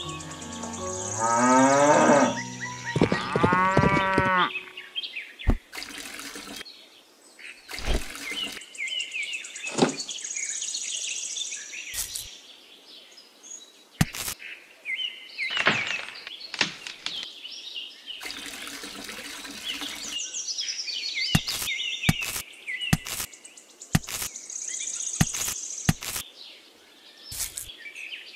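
A cow mooing, long and loud, in the first few seconds over a continuous background of chirping birdsong. After it come scattered light clicks and taps of small pieces being set down, more frequent near the end.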